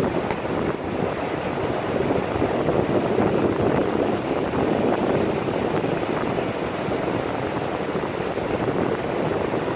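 Steady rushing of wind on a phone's microphone, mixed with surf breaking on a beach.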